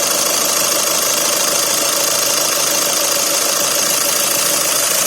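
Volkswagen Vento's TDI turbo-diesel engine idling steadily.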